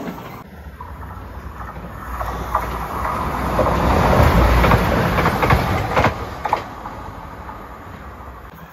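Transport for Wales Class 197 diesel multiple unit running past close by, its wheels clicking over the rail joints. The rumble swells as it passes, loudest about halfway through, then fades as it pulls away.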